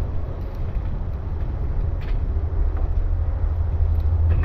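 Steady low rumble of wind buffeting the microphone, with a couple of faint sharp ticks, one about halfway through and one near the end.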